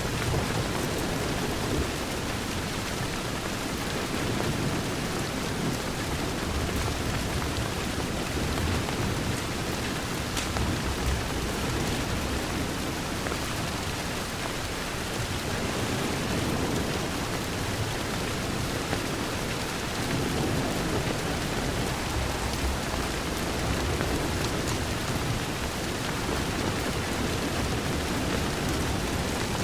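Steady heavy rain pattering on a window, with low rumbles of distant thunder swelling and fading several times.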